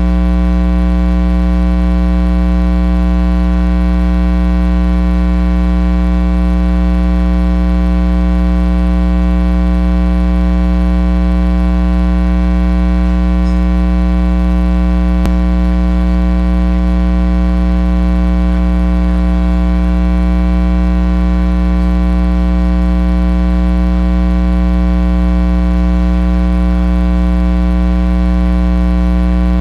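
Loud, steady electrical mains hum: a buzz made of many steady tones stacked above a strong low one, unchanging throughout, with one faint click about halfway through.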